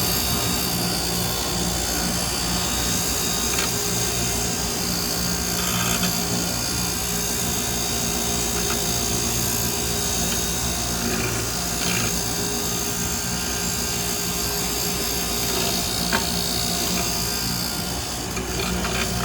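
Motor-driven wire brush running steadily against a scarred metal PTO part, scrubbing it clean and smoothing it to a shine, with a few brief sharp ticks.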